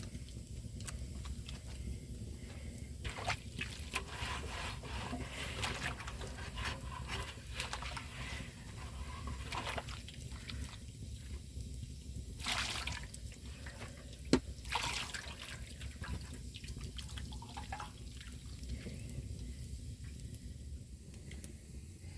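Water dripping and trickling over a steady low background, with scattered rustles and knocks and one sharp click about 14 seconds in.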